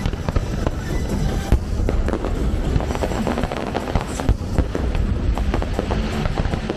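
Fireworks going off, many sharp bangs and crackles in quick succession over a low rumble, with music playing underneath.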